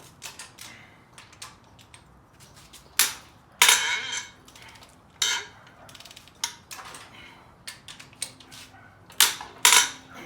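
Metal hand tools and engine parts clinking and clanking during an engine teardown, in irregular knocks with a few loud clanks about three to four seconds in and twice near the end.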